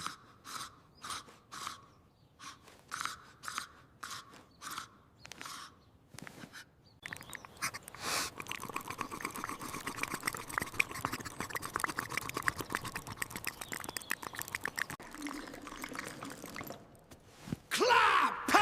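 Cartoon sound effects of animals munching food: separate crunchy bites, about two a second, for the first six seconds, then a busier, continuous crunching from about seven seconds in. Near the end a louder sound effect enters with several tones sliding down in pitch.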